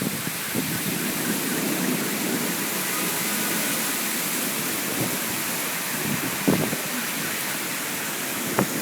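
Heavy rain in a squall: a steady, even hiss of downpour, with brief gusty bumps about six and a half seconds in and again near the end.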